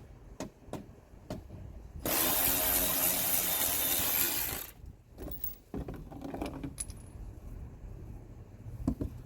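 Metal clicks and clinks of a socket tool working on the under panel's fasteners, with a loud, dense noise lasting about two and a half seconds starting about two seconds in.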